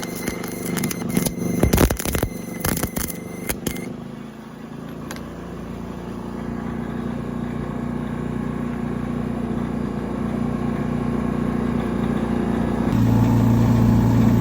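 Semi-automatic wire-feed welding arc crackling and spattering for about four seconds, over the steady running of a Denyo GAW180SS engine welder. The arc then stops and the welder's engine runs on alone, slowly getting louder, with an abrupt change in its tone about 13 seconds in.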